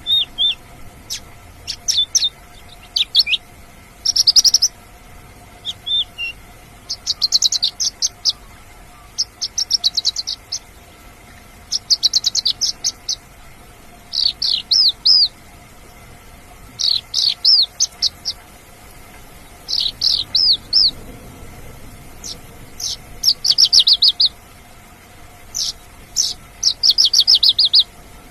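Javan bush lark (branjangan) singing: short bursts of rapid, high chirping trills, repeated every second or two.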